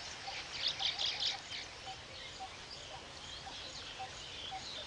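Weaver birds chattering at their nesting colony: many short, high chirps, busiest in the first second and a half, over a faint low note repeating about twice a second.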